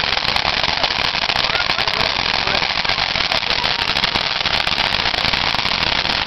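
Ground fountain firework spraying with a dense, continuous crackle of tiny pops.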